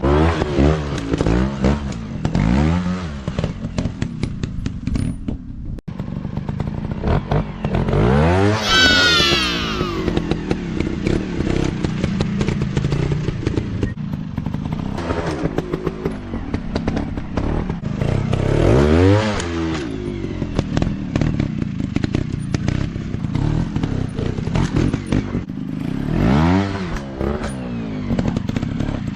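Dirt bike engines revving up and down over and over, with sharp high revs about nine, nineteen and twenty-seven seconds in, and a run of clattering knocks beneath.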